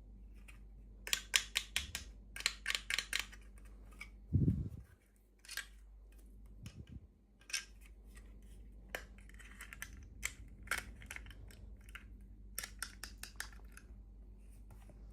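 Toy packaging being opened by hand: clusters of quick, sharp clicks and crackles, with a soft thump about four seconds in.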